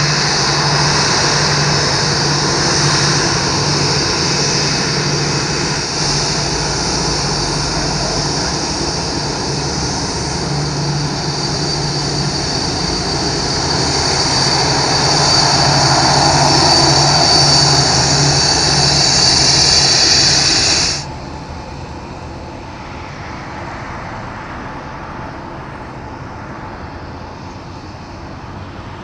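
Boeing 787-8 Dreamliner's Rolls-Royce Trent 1000 jet engines running at taxi power, a steady rush with a high whine. The sound swells louder about two-thirds through, then drops off sharply about 21 seconds in, leaving a quieter steady engine noise.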